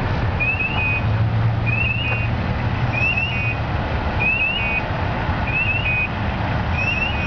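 A truck's electronic warning alarm repeating about once a second, each cycle two quick rising chirps followed by a short steady beep, over the low rumble of an idling diesel engine.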